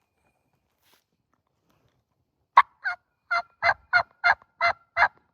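A run of eight short turkey yelps at about three a second, starting about halfway through after a silent stretch.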